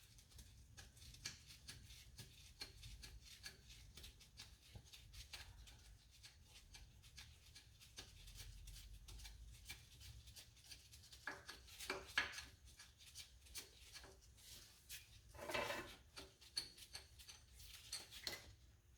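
Faint, irregular clicks and light metallic clinks of hand tools working on engine parts, with a short, louder rattle about three-quarters of the way through.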